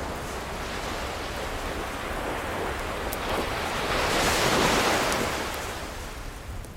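An ocean wave breaking and washing in, swelling to a peak about two-thirds of the way through and then receding. A couple of faint crackles from a wood fire sit over it.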